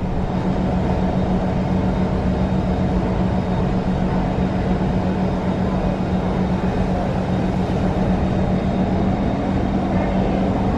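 Steady hum inside a stationary C151 MRT train with its doors open: a constant low tone over an even rush of air from the train's ventilation and on-board electrical equipment.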